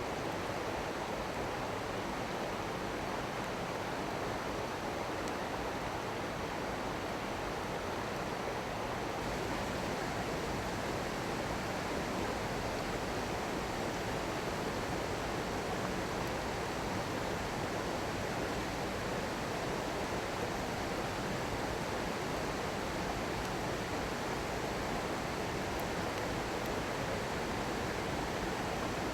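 Small stream flowing and babbling steadily, its sound shifting slightly about nine seconds in.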